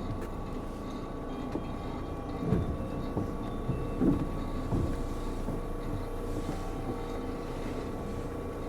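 Kobe New Transit 3000-series rubber-tyred automated people mover running on its guideway, heard as steady running noise with a constant tone from the drive. A few thumps come about 2.5, 4 and 5 seconds in.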